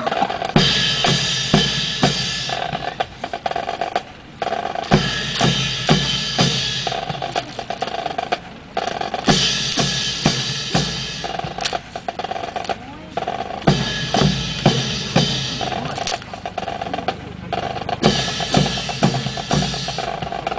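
Drum cadence: snare drum rolls in stretches of a second or two, alternating with runs of heavy drum beats.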